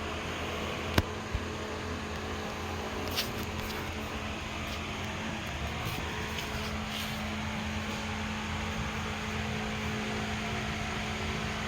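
Steady mechanical hum with a constant low tone, broken by one sharp click about a second in and a few lighter ticks.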